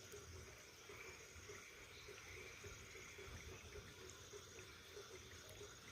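Very faint, steady hiss of a bonfire burning, with a few faint ticks.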